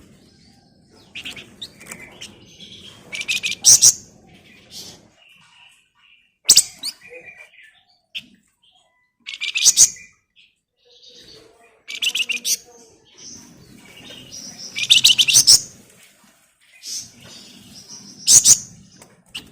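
A flamboyan (an Indonesian cage songbird) singing busily in short, harsh, rapid chattering bursts, about every three seconds, with softer chirps between them.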